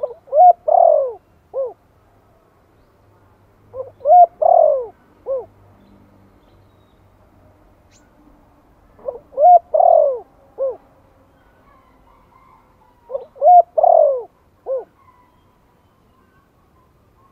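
Spotted dove cooing in the 'giọng Thổ' style: four phrases about four to five seconds apart, each of three or four rising-and-falling coos.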